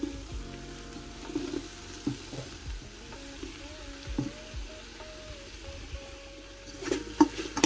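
Diced bell peppers tipped off a wooden cutting board into a hot enamel pot of frying onions, oil sizzling steadily, with a few soft knocks of the board against the pot rim and a cluster of them near the end.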